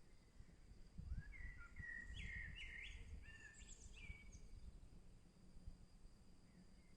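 A songbird sings one short phrase of quick, varied whistled notes, starting about a second in and lasting about three seconds. Underneath are a faint steady high tone and a low rumble.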